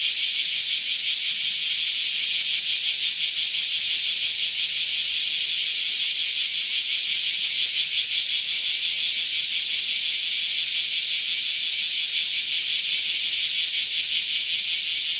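Cicada calling: a loud, steady, high-pitched buzz made of fast, even pulses, holding without a break.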